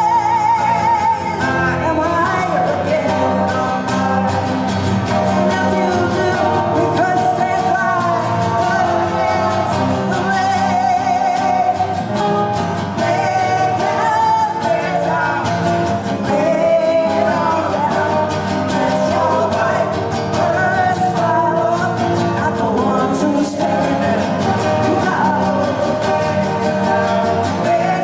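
A woman singing a song live with guitar accompaniment, her voice held in long notes with vibrato.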